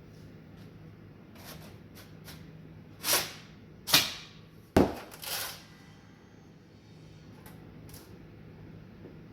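A few short knocks and clanks of tools and parts being handled in a workshop: four louder ones a little past the middle, the sharpest a single hard knock, among faint ticks, over a low steady hum.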